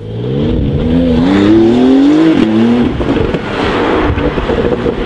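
Porsche 992 Carrera S's twin-turbo flat-six running through a QuickSilver aftermarket exhaust, accelerating hard. The engine note rises steadily, drops at a gear change about two and a half seconds in, then carries on lower and rougher.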